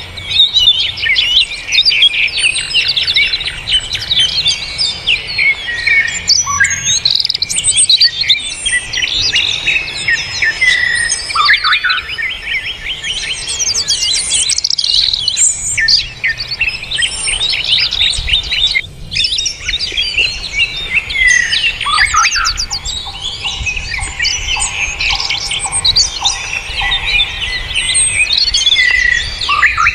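Dense, unbroken chirping and trilling of small songbirds, many rapid calls overlapping one another. Past the middle, a lower note repeats about twice a second for several seconds beneath the chirping.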